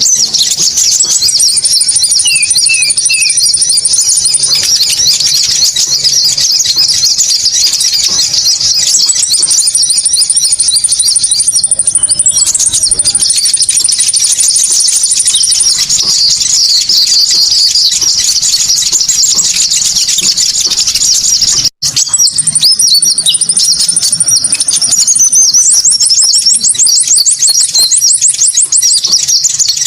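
Bird-lure recording of konin bird calls: a dense, continuous stream of high, rapid chirps and thin trills, with a momentary dropout about 22 seconds in.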